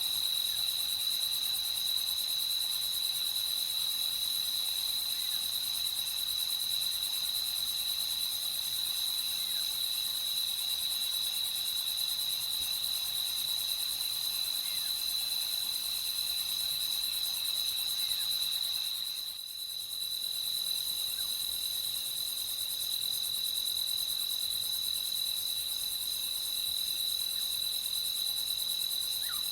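Crickets chirping in a steady, continuous high-pitched chorus of night insects, dipping briefly about two-thirds of the way through.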